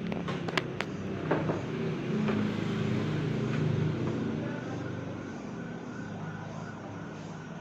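A motor hums steadily, swelling in the middle and easing off toward the end, with a few sharp clicks and knocks in the first second and a half.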